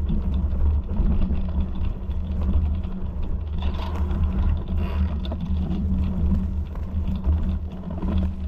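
A steady low rumble with no break.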